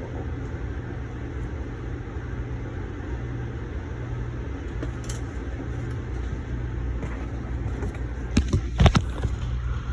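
Steady low rumble and hum inside an Amtrak passenger coach, with a cluster of sharp knocks near the end, the loudest about nine seconds in.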